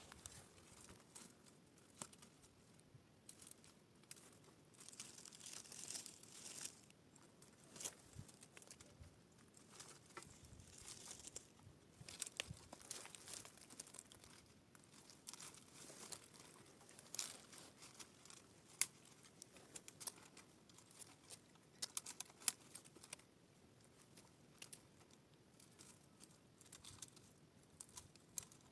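Faint crinkling and rustling with scattered small clicks and ticks, a little louder around five to seven seconds in.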